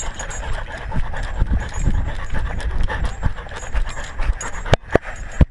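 A dog panting right at a collar-mounted GoPro Hero3, with the camera rubbing against the collar and fur, and a few sharp knocks near the end.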